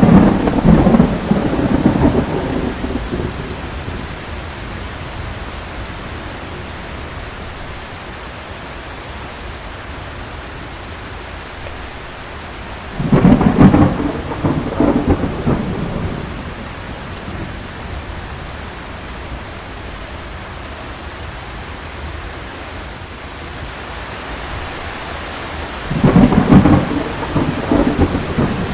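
Steady heavy rain of a thunderstorm, with three rolls of thunder about 13 seconds apart, each rumbling for two to three seconds.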